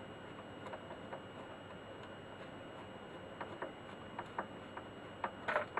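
Screwdriver turning small screws into a record player's metal face plate: irregular faint ticks and clicks that become louder and closer together in the second half.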